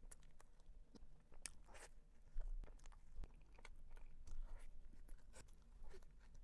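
A person chewing and biting soft bread filled with whipped fresh cream, close to a clip-on microphone: irregular wet mouth smacks and small clicks.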